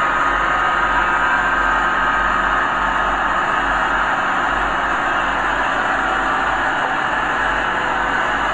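Diesel engine of earthmoving machinery running steadily at a constant level.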